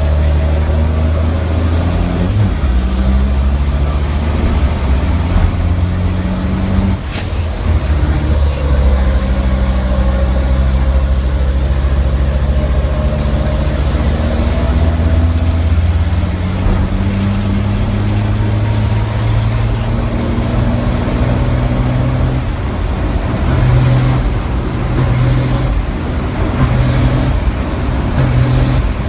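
Racing truck's diesel engine running hard, heard from inside the cab, its note stepping with gear changes. A high turbo whistle rises twice, a sharp clack comes about seven seconds in, and near the end the engine note pulses with short repeated high chirps.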